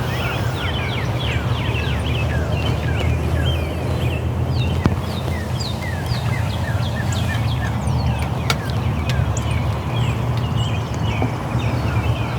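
Morning chorus of small birds chirping: many short, quick down-sliding notes overlapping one another, over a steady low hum.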